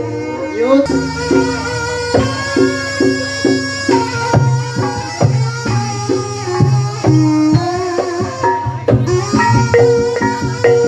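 Javanese ebeg accompaniment music: a traditional ensemble of struck pitched percussion keeping a steady rhythm of ringing notes, with hand-drum strokes underneath. A chanted vocal line glides and ends in the first second.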